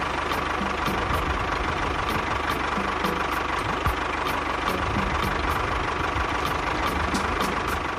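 Tractor engine idling steadily with a fast, even throb, cutting off suddenly at the very end.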